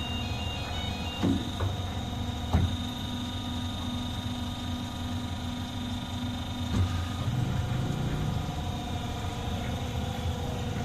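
CNC bundle cutting machine running with a steady motor hum and a few sharp clicks. A heavier low rumble comes in about seven seconds in.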